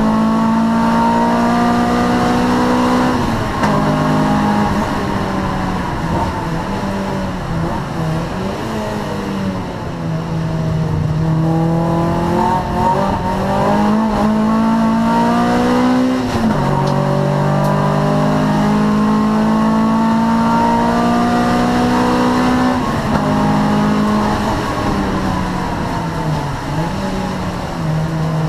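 Honda Prelude 2.2 VTEC four-cylinder race engine under hard acceleration. The revs climb, then drop sharply at each gear change, with easing and lower revs between the pulls as it slows for corners.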